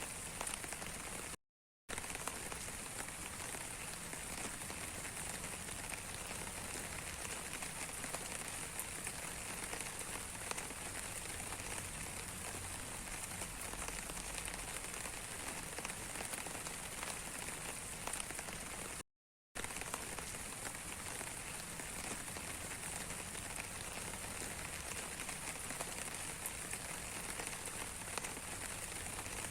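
Steady rain falling, a dense patter of many small drops. The sound cuts out completely for a moment twice, about a second and a half in and again about nineteen seconds in.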